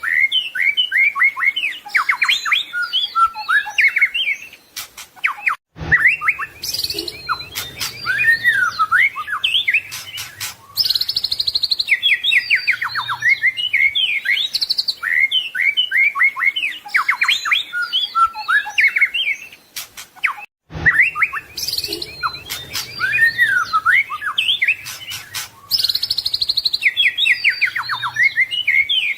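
White-rumped shama (murai batu) singing a fast, varied song of whistles, trills and rattling notes. The same passage repeats about every 15 seconds, broken by a brief cut about six seconds in and again about twenty-one seconds in, where the recording loops.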